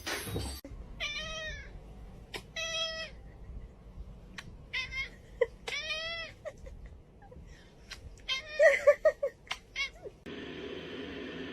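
A domestic cat meowing over and over, about five drawn-out meows with short pauses between them.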